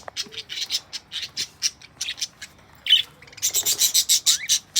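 Pet budgerigars chattering and squawking: a rapid string of short, sharp chirps, densest in a flurry about three and a half seconds in.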